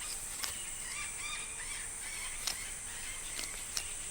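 Tropical forest ambience: a steady high-pitched insect drone with scattered short bird calls and a few sharp clicks.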